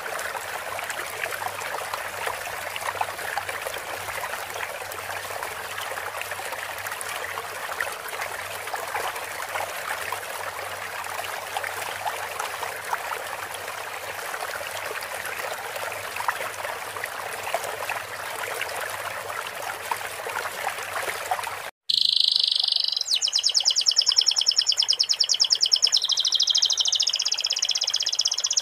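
Steady rushing and trickling of running water. It cuts off abruptly about three quarters of the way in, and a domestic canary starts singing fast, repeated high trills, canary song taught sikatan londo (flycatcher) phrases.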